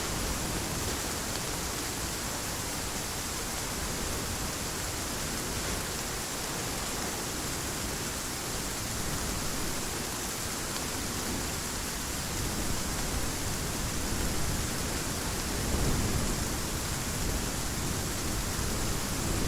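Steady heavy rain, with a low rumble of distant thunder that builds in the second half and peaks about three-quarters of the way through.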